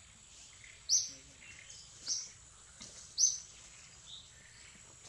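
A bird repeating a short, high chirp that dips slightly in pitch, three loud times a little over a second apart, with fainter, lower chirps in between, over a thin steady high-pitched tone.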